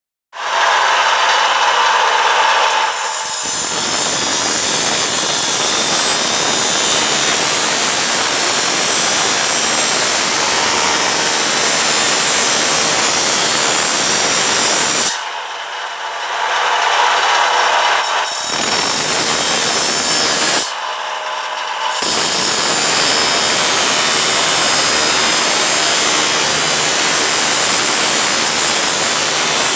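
Power tool working material with a loud, steady, harsh hiss. It eases off twice, about halfway through and again a few seconds later, leaving only the tool's motor hum before it bites in again.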